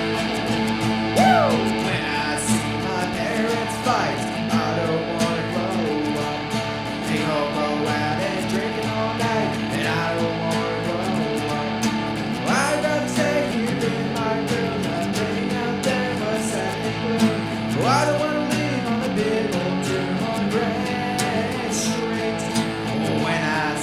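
Rock music with strummed guitars and a steady loud mix. Bent or sliding guitar notes swoop up and down every few seconds.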